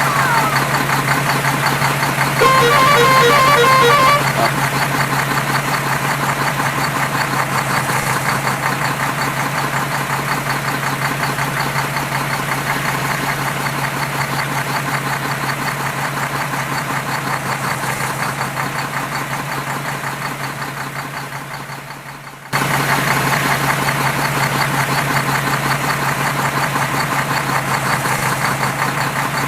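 Vehicle engine sound effect running steadily, with a horn beeping in quick pulses for about a second and a half, a couple of seconds in. Near three quarters of the way through, the engine fades away and then cuts back in suddenly, as a loop restarting.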